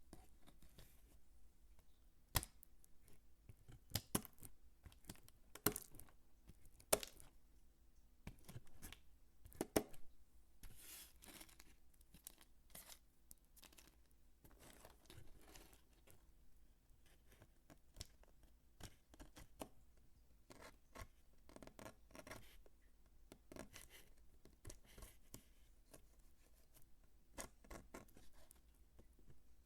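Dry bar soap being cut and crumbled by hand close to the microphone: irregular sharp crunches, snaps and short scratchy rasps, the loudest ones in the first ten seconds.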